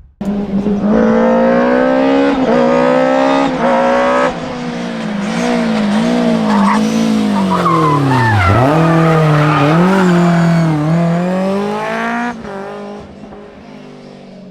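Rally car's engine revving hard and climbing through several quick gear changes, dropping sharply off the throttle about halfway through, then pulling hard again, with tyres squealing as the car slides through a corner. The engine sound fades near the end as the car drives away.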